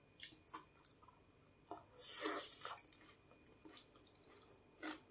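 Close-up chewing of a Thai fried fish cake with cucumber relish: a few faint clicks and wet mouth sounds, and one louder noisy sound lasting under a second about two seconds in.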